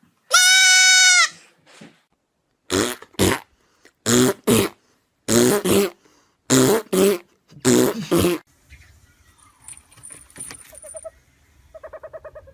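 An animal calling loudly: one long high cry, then about five pairs of short, harsh calls. A brief rapid squeaking follows near the end.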